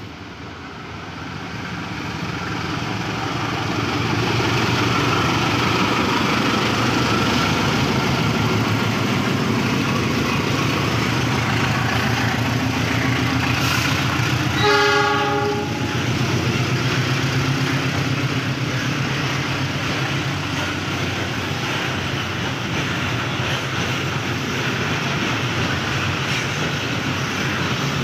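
A train passing close by. Its rumble builds over the first few seconds into a steady clatter of wheels over the rails. About halfway through, the horn sounds once, briefly.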